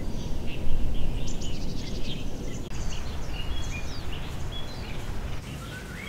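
Birds chirping and whistling in short calls over a steady low rumble of wind buffeting the microphone.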